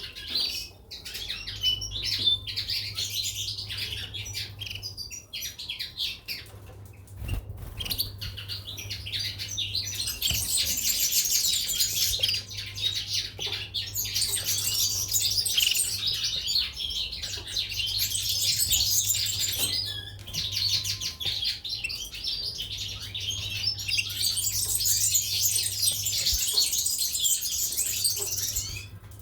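Caged goldfinches and canaries chirping and singing in a dense, rapid twitter that thins out briefly a few times. A steady low hum runs underneath.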